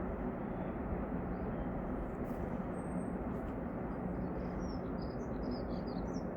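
Steady low rumble with a faint hum, and a small bird chirping a few times about two-thirds of the way through.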